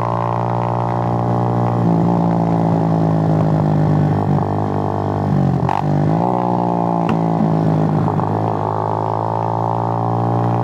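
Suzuki GN125's single-cylinder four-stroke engine running under way. The revs step up about two seconds in, then dip and climb back about five and a half seconds in.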